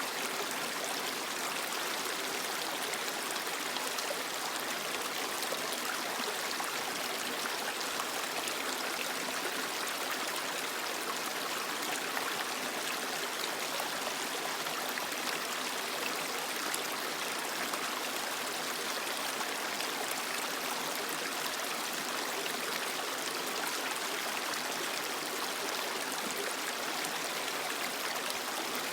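A small creek flowing over rocks, a steady rush and babble of water.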